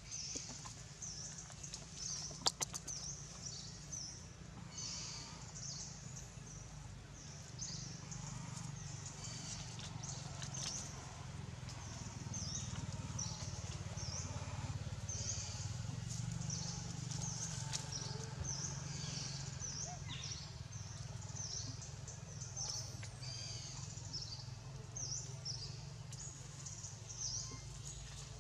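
Small bird chirping over and over in short, high calls, about one or two a second, over a steady low rumble. A sharp click sounds about two and a half seconds in.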